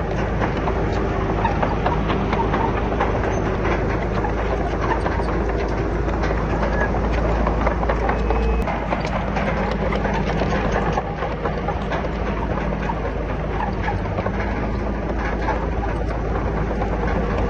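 Komatsu D31PX crawler bulldozer's diesel engine running steadily under rapid metallic clatter from its tracks. The engine note shifts about halfway through.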